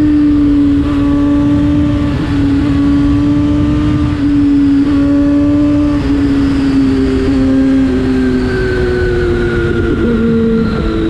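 Yamaha FZ6's inline-four engine through an Akrapovic exhaust, running steadily under way, its note easing slowly down and then shifting down and back up near the end as the revs change.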